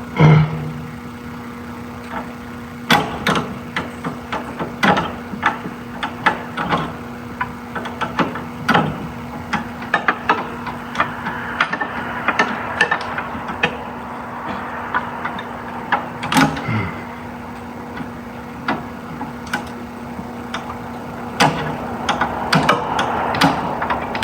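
Irregular clinks and knocks of hand tools and metal parts being worked in a car's engine bay during ABS pump removal, over a steady hum.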